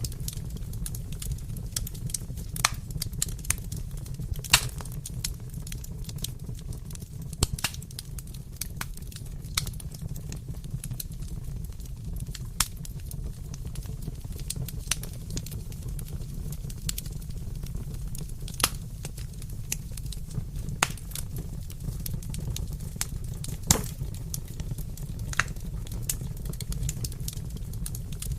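Wood fire crackling, with irregular sharp pops over a steady low rumble of the flames.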